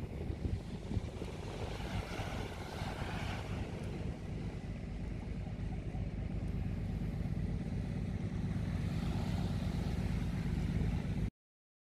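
Waves washing onto a sandy beach, two swells of surf hiss rising and falling, under a heavy rumble of wind on the microphone; the sound cuts off suddenly near the end.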